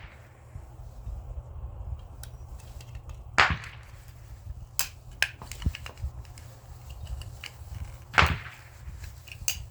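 Scrap parts being cut apart and handled: sharp clacks and clicks of metal and plastic, two loud ones about three and a half and eight seconds in, with smaller clicks between.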